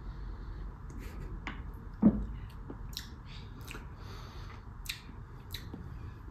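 Mouth sounds of a person chewing and tasting soft, custard-like rollinia flesh: small wet smacks and clicks of lips and tongue, with one louder, short low sound about two seconds in.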